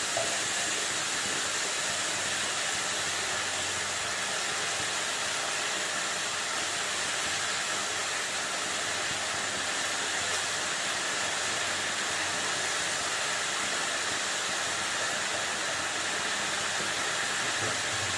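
Steady hiss of chopped vegetables, dal and rice frying in oil in an aluminium kadai over a gas burner.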